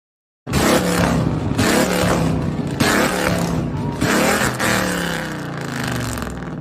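Road vehicle noise recorded on a dashcam, cutting in abruptly after about half a second of silence, loud with repeated surges about once a second and slowly fading near the end.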